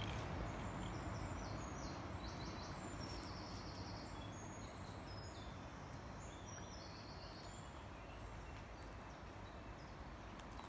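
Birds singing in the background, a run of short high whistled notes that dies away after about seven seconds, over a steady rushing noise.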